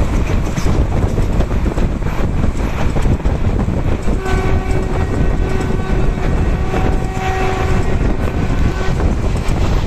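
Passenger train running at speed, heard from an open coach door: steady wheel-and-rail rumble with wind on the microphone. About four seconds in, the train horn sounds one long blast of about five seconds.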